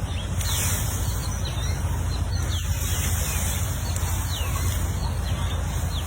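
Bird chirping: short, high, falling chirps repeated every half second or so, over a steady low rumble.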